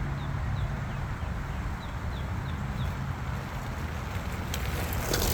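Wind buffeting the microphone as a steady low rumble. A run of short, high, falling chirps comes a few times a second over the first three seconds, and a crackle of clicks starts near the end.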